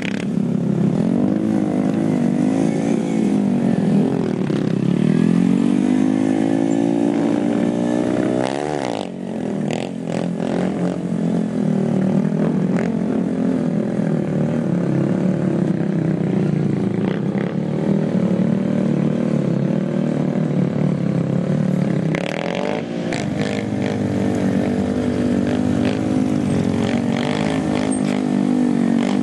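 Small pit-bike engines revving as they are ridden around, the pitch rising and falling as the throttle is opened and closed, with a sharp climb and sudden drop about nine seconds in.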